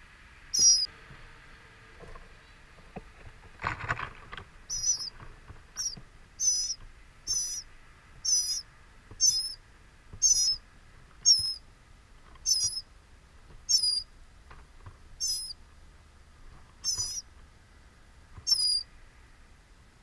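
Songbird at a nest with nestlings giving a short, high, wavering chirp over and over, about fifteen times at roughly one-second intervals. About 4 s in there is a brief rustle, as the adult arrives at the nest.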